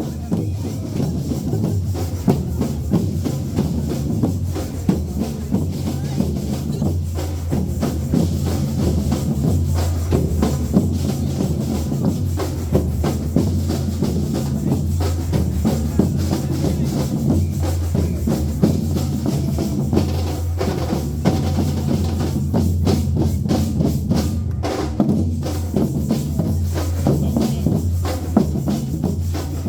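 A band's percussion section, the 'engine room', playing a continuous driving drum rhythm, with bass drum and snare strikes over a sustained low bass.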